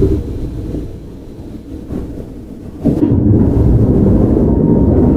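Keihan 9000-series electric train (Toyo GTO-VVVF) running, heard from inside the car: a deep steady rumble of wheels on rails. It drops quieter for about two seconds, then comes back loud suddenly about three seconds in.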